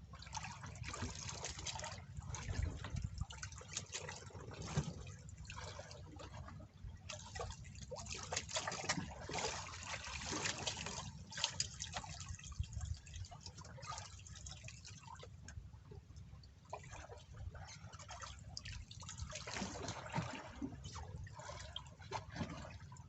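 Water splashing and dripping in many short, irregular hits.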